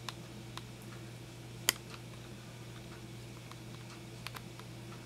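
Quiet room tone with a steady low hum and a few faint, scattered ticks, one sharper click about a second and a half in.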